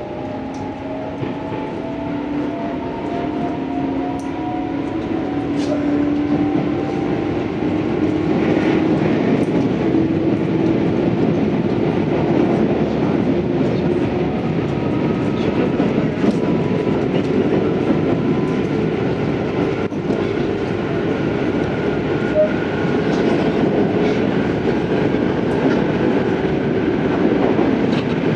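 Running sound inside a Tobu 634-series electric train: a steady rumble with rail-joint clatter, under a motor and gear whine that rises in pitch for the first half as the train picks up speed, then holds steady.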